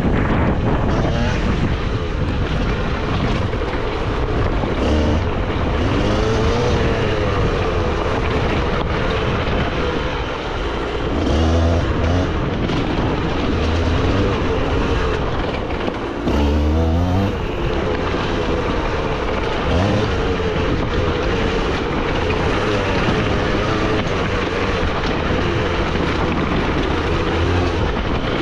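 Beta RR 50 enduro bike's 50cc two-stroke engine, ridden downhill off-road, its revs rising and falling again and again over a steady loud rushing noise.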